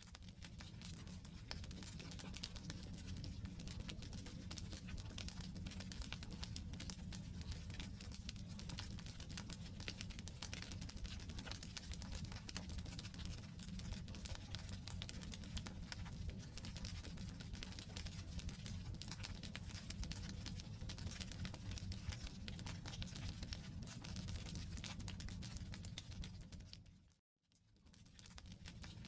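Wood campfire burning: a dense, continuous run of small crackles and pops over a low rumble of flame. Near the end the sound drops away to silence for about a second, then returns.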